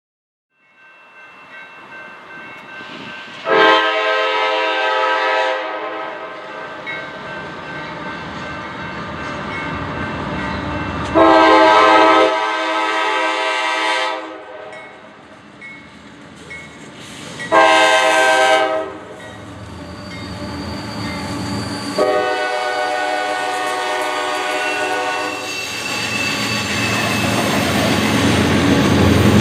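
A diesel freight locomotive's air horn sounds the grade-crossing signal as the train approaches: two long blasts, one short, then one long. Near the end the rumble and clatter of the train grow louder as it draws close.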